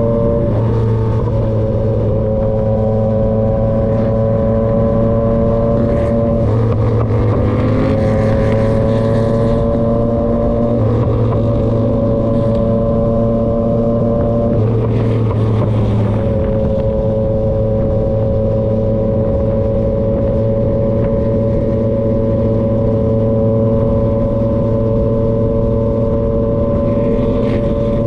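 Yamaha XSR900 three-cylinder engine through an SC-Project CRT aftermarket exhaust, running at a steady cruise. The engine note rises about a quarter of the way in and shifts again about halfway through, with short rushes of hiss at those moments.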